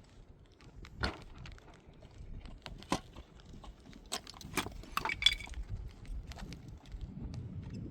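Irregular clinks and knocks, with sharper ones about one, three and five seconds in.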